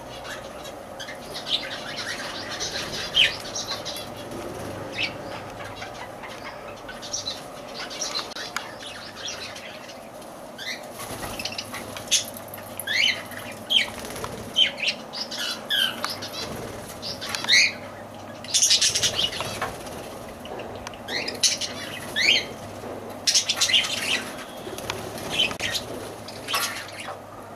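Lovebirds giving many short, sharp high chirps that come thicker in the second half, with wings flapping and fluttering.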